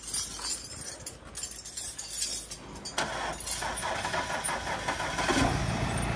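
Audi A6 engine, just serviced with a new timing belt, being started: clicks and rattling at first, then about five seconds in the engine settles into a steady low idle.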